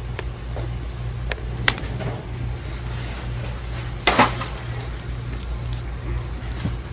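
Fire crackling with scattered sharp pops and one louder crackle about four seconds in, over a steady low hum.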